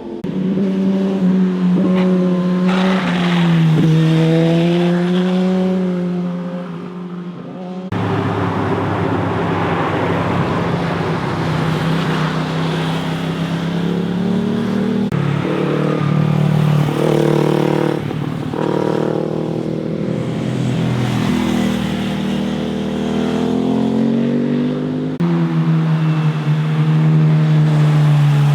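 Motorcycle engines passing through mountain-road corners one after another, revving up and down in pitch as they accelerate out of the bends. The sound changes abruptly a few times where separate passes are cut together.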